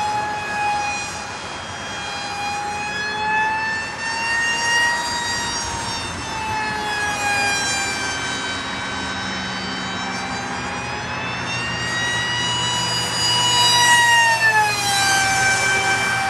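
Electric motor and propeller of an RC flying wing whining in flight, the pitch rising and falling as it swoops around; near the end it comes past loudest and the pitch drops sharply as it goes by.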